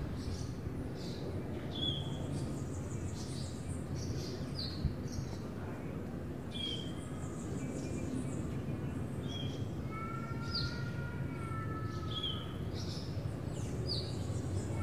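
Birds chirping: a short, high two-note call repeated about every two seconds, over a low steady hum. A few longer whistled notes join in about two-thirds of the way through.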